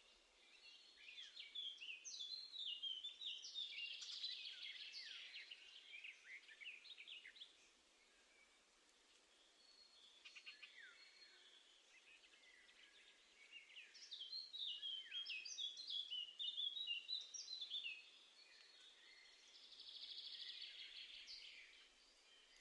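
Wild garden songbirds singing and chirping, faint, in two spells of quick, sweeping song phrases with a quieter gap between them.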